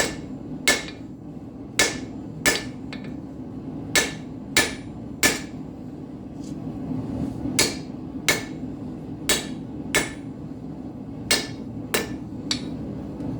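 Hand hammer striking hot steel on an anvil to draw out a nail, with about a dozen sharp, ringing blows coming in twos and threes. A propane gas forge runs steadily underneath.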